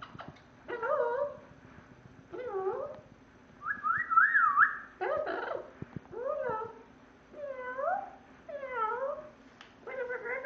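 Parrot imitating a cat's meow, calling over and over with short wavering meows about every second and a half, with one longer whistled call about four seconds in.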